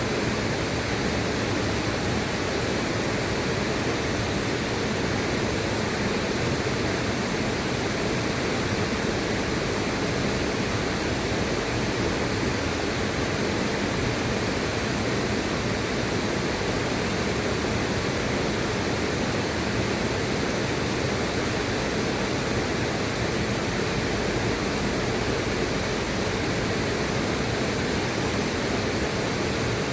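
River water rushing in a steady, unbroken hiss, with no splashes or changes standing out.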